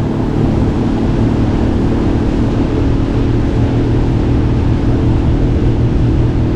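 Gheenoe's outboard motor running at a steady pitch, with a broad hiss over it.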